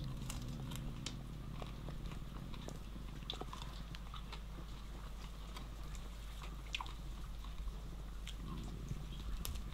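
A person chewing a bite of tandoor-roasted rabbit, with scattered small clicks and smacks over a steady low hum.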